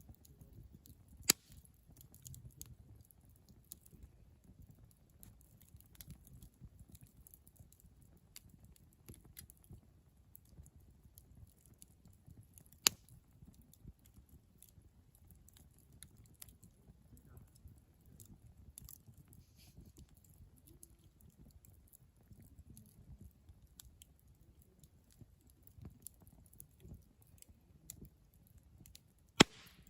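Wood fire crackling, with scattered small snaps over a low rumble and three sharp, loud pops spread through the stretch.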